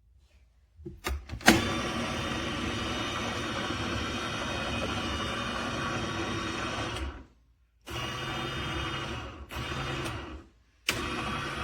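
Electric juicer motor running steadily after a click or two about a second in. It cuts out briefly three times and starts again each time, the last stretch shorter than the first.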